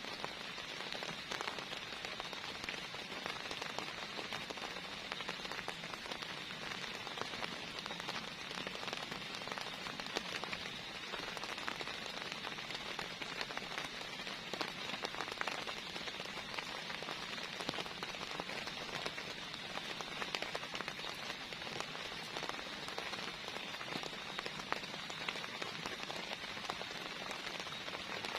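Heavy rain falling steadily, with many separate drops ticking on a nearby surface.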